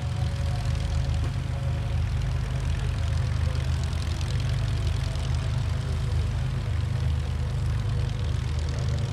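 A light aircraft's piston engine and propeller running steadily, with a deep hum and a fainter steady tone above it.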